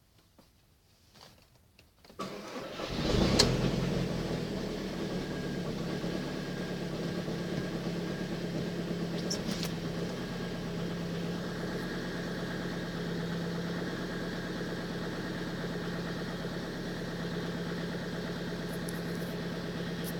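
Seat Leon's 1.9 TDI (ARL) four-cylinder diesel cold-started at −17 °C: about two seconds in the starter cranks briefly and the engine catches with a short rev flare, then settles into a steady idle.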